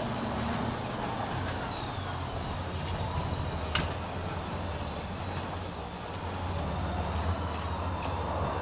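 A vehicle engine running steadily at low speed, with one sharp click about four seconds in.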